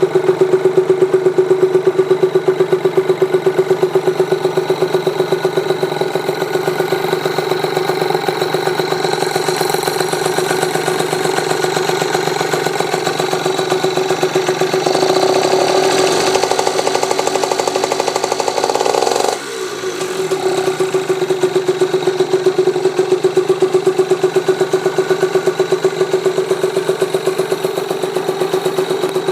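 Yamaha TZR50R's 50cc two-stroke single with an aftermarket expansion-chamber exhaust, idling with a fast, even pulse. Past the middle the revs climb and are held up for a few seconds, then drop abruptly back to idle.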